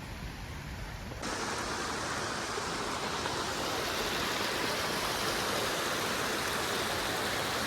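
Steady rush of flowing water from a creek or waterfall, which gets louder and brighter about a second in.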